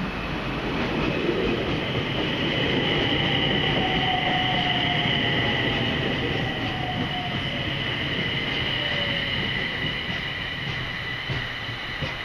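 JR East E721 series electric train arriving and slowing to a stop alongside the platform. Its wheels rumble on the rails, a motor whine falls in pitch as it brakes, and a steady high squeal sits over it.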